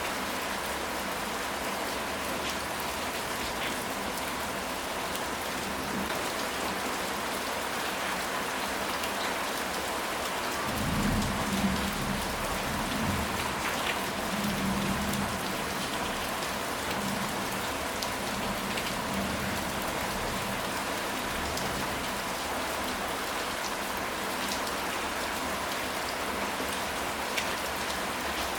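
Steady rain falling, an even hiss with scattered drop clicks. About eleven seconds in, a low rumble of thunder rolls in and fades away over several seconds.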